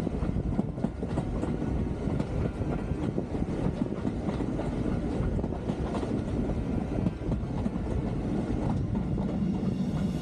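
A train running along the rails, with a steady rumble and clicks from the wheels passing over the rail joints.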